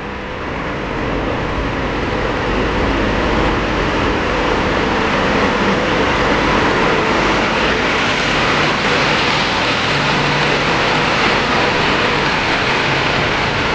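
Passenger train hauled by an electric locomotive pulling into the platform, with its wheels and coaches rolling past close by. The noise builds over the first couple of seconds, then holds steady.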